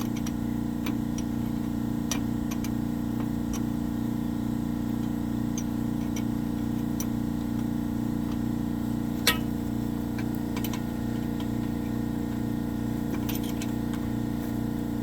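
Air compressor running with a steady hum, with scattered light metallic ticks from hand tools and one sharper clink about nine seconds in.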